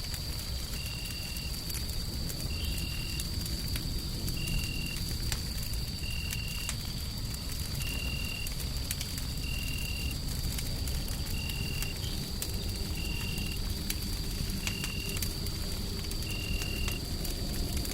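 Fire crackling over a steady low rumble of white noise, with scattered sharp pops. A faint steady high tone and a short high beep repeating evenly, a little under two seconds apart, run through it.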